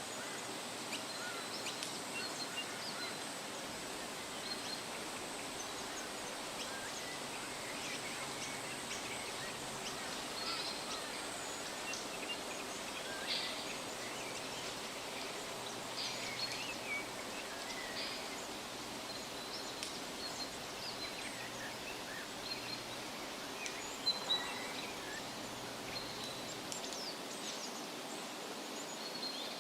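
Wind rustling through leaves in a steady hiss, with small birds chirping and calling in short high notes throughout. Two brief, louder notes stand out about three-quarters of the way through.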